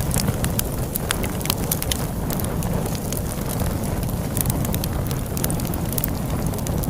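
Log fire crackling, with frequent sharp irregular pops, over a steady low rumble of snowstorm wind.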